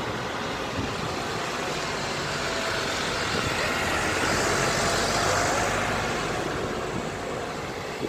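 A vehicle driving past, its engine and tyre noise building to a peak about five seconds in and then fading.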